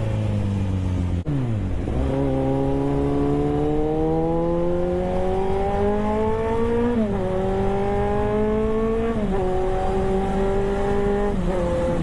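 Motorcycle engine and exhaust accelerating hard, its pitch climbing through the gears and dropping sharply at each of three upshifts in the second half. There is a brief cut in the sound about a second in.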